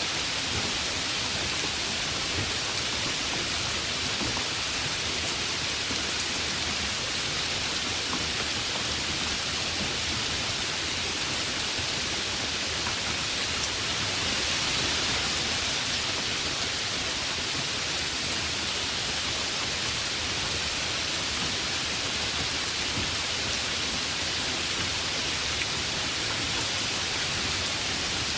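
Heavy rain falling steadily, a dense even hiss of drops with a slight swell midway.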